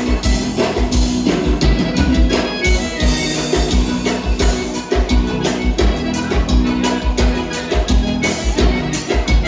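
Live gaúcho dance music: an accordion-led band playing an instrumental bugio, with bass and drums on a steady beat.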